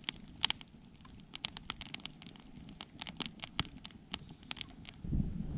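Irregular sharp clicks and crackles over a faint background, stopping suddenly about five seconds in.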